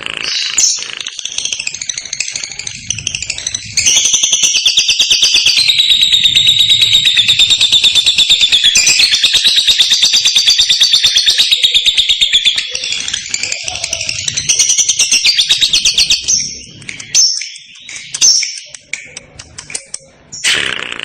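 Lovebird chattering in a long, very rapid trill (the 'ngekek' call) lasting about nine seconds in the middle, with shorter separate chirps before and after it.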